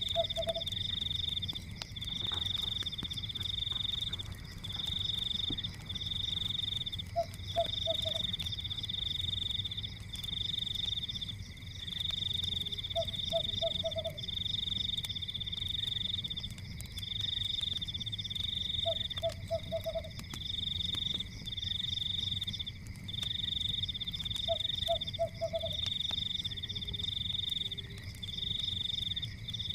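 Night chorus of calling frogs: a high trilling call repeating about every second and a half over a steady high drone, with a short three-note call about every six seconds. Underneath is a low, steady rumble with faint crackles from a fire.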